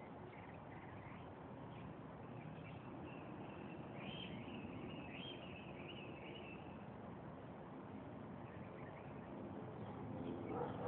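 Birds chirping faintly in the background, a run of short high calls mostly in the middle, over steady outdoor background noise.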